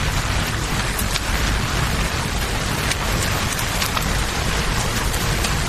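Steady rain falling, blended with flowing river water and a deep rumble underneath, with scattered sharp clicks from a crackling campfire.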